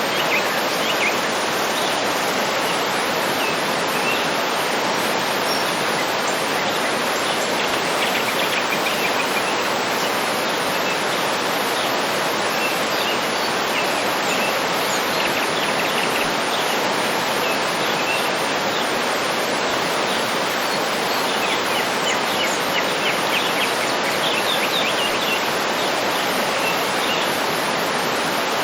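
Waterfall rushing in a steady, unbroken roar. Over it, small birds chirp and trill now and then, most busily twice.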